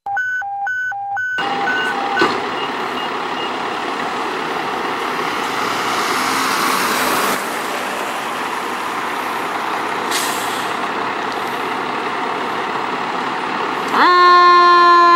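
Fire engine's backup alarm beeping steadily for about two seconds, then the truck's engine running with a hiss. About fourteen seconds in, its siren comes on loudly.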